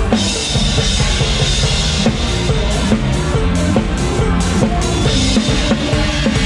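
Live band music driven by a drum kit, with bass drum and snare hits over a steady beat.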